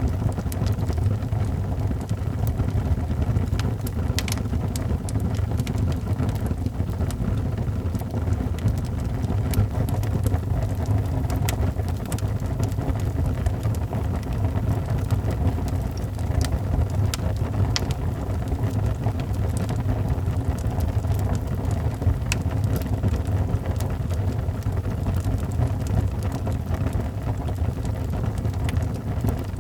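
Wood fire in a fireplace crackling: a steady low rumble of burning with irregular sharp pops and snaps scattered throughout.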